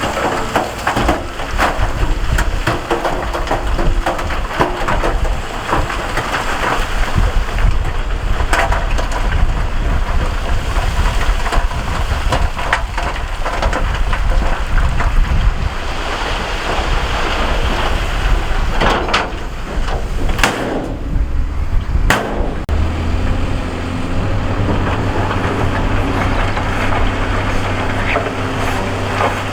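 Rock and gravel crunching and clattering under a heavy earthmoving machine, with its diesel engine running underneath. A little over two-thirds through, the crunching drops away and a steady engine drone is left.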